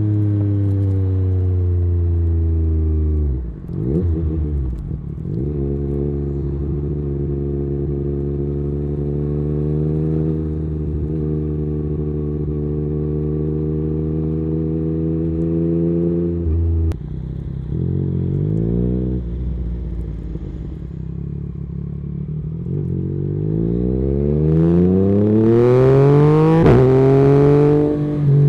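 Yamaha MT-09's three-cylinder engine through an un-baffled Akrapovic carbon exhaust (dB killer removed), heard while riding: long steady cruising stretches broken by gear changes, where the pitch drops and climbs again. Near the end it revs up in a long, rising pull that gets louder, then cuts back sharply.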